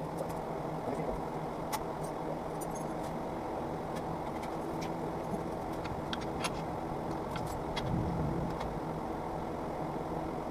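Occasional light metallic clinks of hand tools and fasteners over a steady background hum.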